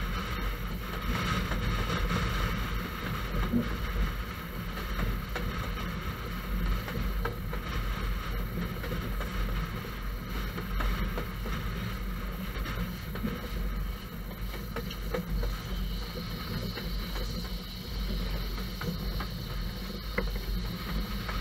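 Steady rumble of a railway carriage on the move, heard from inside the train, with a few faint clicks.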